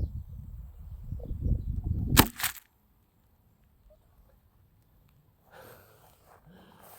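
A low rumbling noise, then one sharp crack a little over two seconds in, followed by almost silence. Something unexpected happened.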